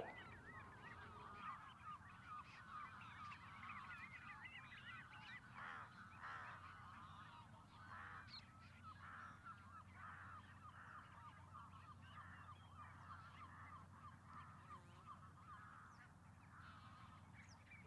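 A flock of birds calling faintly and continuously, many short wavering calls overlapping one another.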